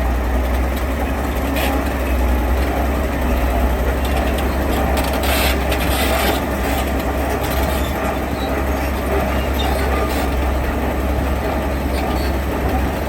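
Heavy diesel construction machinery running steadily, a deep engine rumble under a rough mechanical noise, with a brief louder rasp of scraping or shifting material about five to six seconds in.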